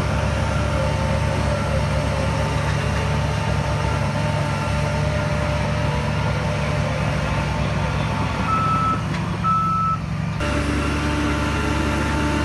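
Heavy diesel earth-moving machinery running steadily, with a reversing alarm beeping over the engine noise. The sound changes abruptly about ten seconds in.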